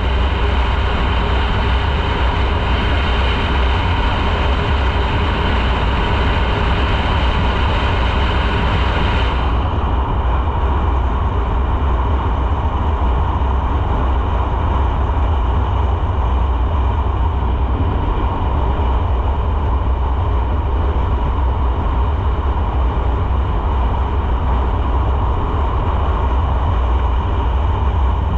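Motorcycle running at a steady cruise, its engine hum under a constant low wind rush on the microphone.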